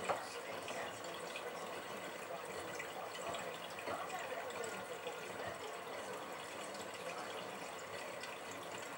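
Miele Navitronic washing machine partway through its automatic wash cycle: water running and splashing in the drum, steady throughout, with a brief knock right at the start.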